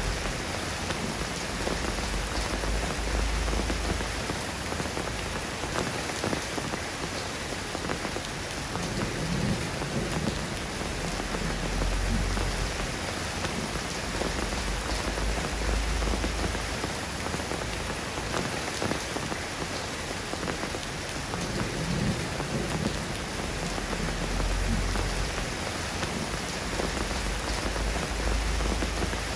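Steady rain falling, an even hiss of drops, with a low rumble that swells and fades about every twelve seconds.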